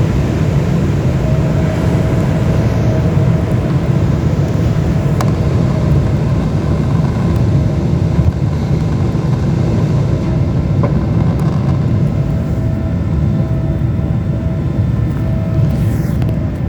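Airliner engines at takeoff power heard from inside the cabin: a loud, steady low rumble with a steady hum-like tone running through it.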